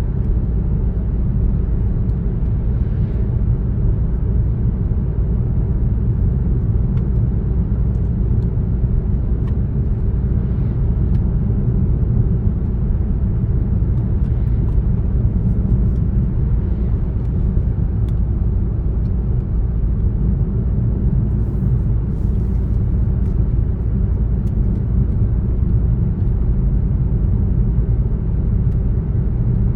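Car driving at steady speed: a continuous low rumble of road and engine noise that stays even throughout, with a few faint ticks about two-thirds of the way in.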